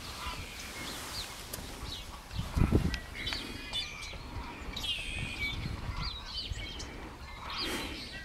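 Small birds chirping and twittering, many short calls scattered throughout, with a brief low rumble about two and a half seconds in.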